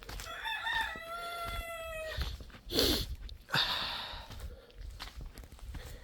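A rooster crowing once: a broken, stuttering start, then one long held note lasting about two seconds. A couple of short noisy sounds follow about three seconds in.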